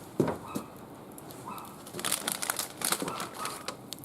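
Plastic packaging crinkling as it is handled, a run of sharp crackles over about two seconds in the second half, after a short knock near the start.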